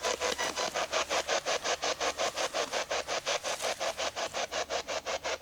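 Ghost-hunting spirit box sweeping through radio stations, an even, rapid chop of static about nine times a second.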